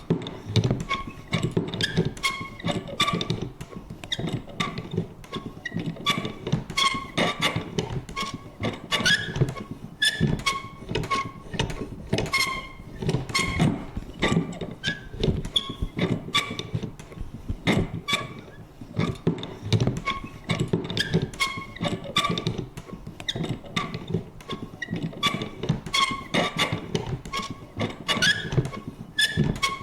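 Vintage paper punch worked over and over: a run of sharp clicks and knocks at an uneven pace, about one to three a second, with short creaking squeaks from its lever mechanism.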